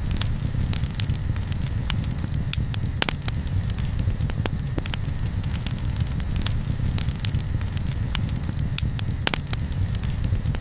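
Campfire crackling, with irregular sharp pops over a steady low rumble. A high insect chirp repeats every second or two.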